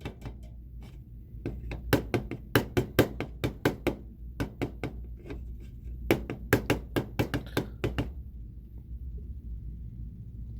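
Tapping and knocking drummed out as a makeshift beat: a run of sharp knocks in an uneven rhythm, clustered in quick groups, that stops about eight seconds in.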